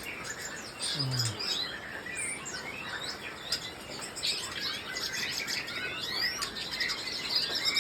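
Many small songbirds chirping and calling at once: dense, overlapping short high chirps, quick glides and trills. A brief low voice-like hum comes about a second in.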